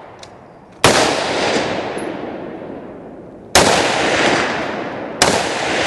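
Three rifle shots, each sharp crack followed by a long rolling echo that fades over a second or two; the second comes about two and a half seconds after the first, the third under two seconds later.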